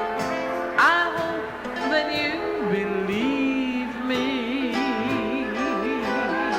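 Live jazz with a female singer over band accompaniment, holding one long note with a wide vibrato through the second half.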